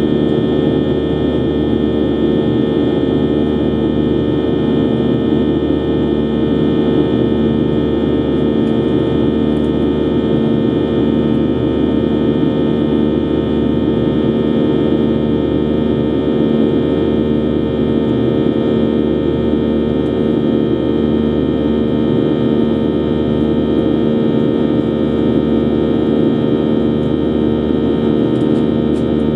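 Steady cabin drone of a Boeing 737-800's CFM56-7B turbofan engines, heard from inside the passenger cabin, with a constant hum and several steady tones that do not change.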